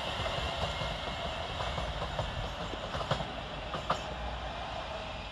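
Class 350 Desiro electric multiple unit running away along the track, its steady rail noise slowly fading, with a couple of faint clicks partway through.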